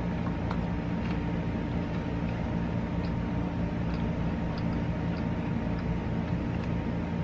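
A bite of KitKat wafer bar being chewed: faint crisp clicks every second or so over a steady low hum.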